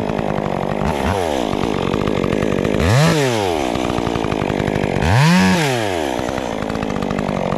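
Chainsaw idling and revved up three times in quick blips, the engine pitch rising and falling back each time, about one, three and five seconds in.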